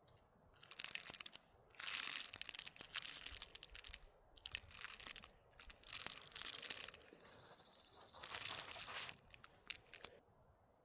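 A series of close crinkling, crunching and tearing bursts, some short and some lasting a second or two, with small clicks between them: dry material being handled.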